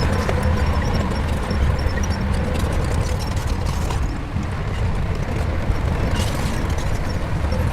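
Shantui bulldozer's diesel engine running steadily under load.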